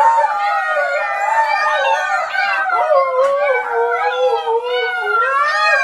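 A dog howling in a long, unbroken stretch, its pitch wavering up and down.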